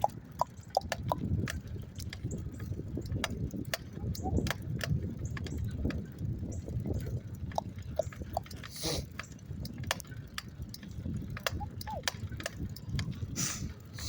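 Bicycle being ridden: a low rumble from the ride, with irregular clicks and rattles scattered throughout and a couple of brief hisses.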